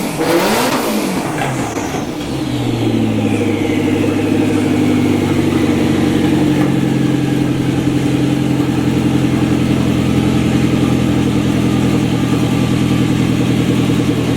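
2001 Lotus Esprit V8 Twin Turbo's 3.5-litre twin-turbo V8 exhaust: a quick rev blip whose pitch rises and falls, with a high whistle falling away after it, then a steady idle.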